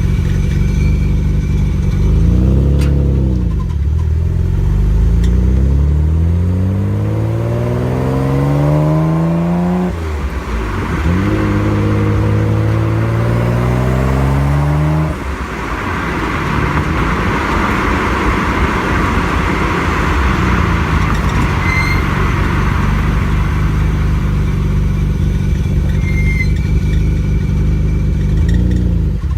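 Nissan Skyline GT-R R33's RB26DETT twin-turbo straight-six heard through its aftermarket exhaust while driving: the engine note climbs under acceleration, drops at an upshift about ten seconds in, climbs again, then falls off sharply about five seconds later and settles into a steady cruise with road and wind noise.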